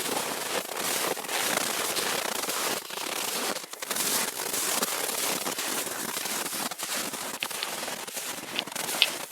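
Footsteps wading through deep, dry snow at −30 to −36 °C, a dense crunching and squeaking that the hard frost produces, with one short, sharp squeak near the end.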